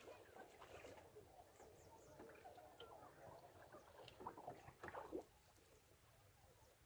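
Faint chatter of many birds calling over one another, dying down about five seconds in.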